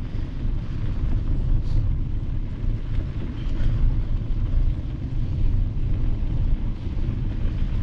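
Steady low rumble of wind buffeting the microphone on a moving mountain bike, mixed with tyre noise on a gravel road, with a couple of faint ticks.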